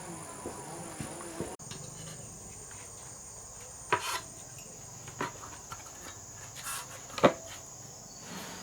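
Steady high-pitched insect chirring, like crickets or cicadas, with a few scattered sharp knocks, the loudest about seven seconds in.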